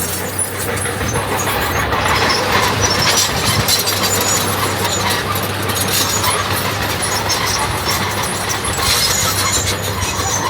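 Diesel earthmoving machinery running steadily, with intermittent high-pitched metallic squeals over the engine.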